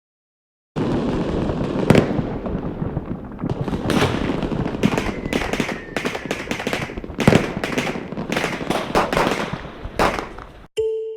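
Fireworks rockets from a Zink gold rocket set going off: a dense run of sharp bangs and crackling that starts suddenly about a second in and cuts off abruptly near the end.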